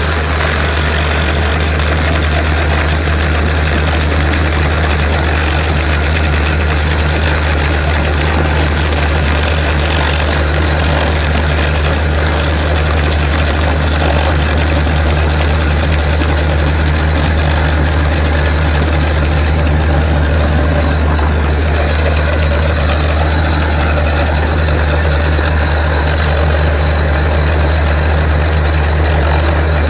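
Borewell drilling rig running steadily: a heavy diesel engine drone with a thin, steady high whine above it.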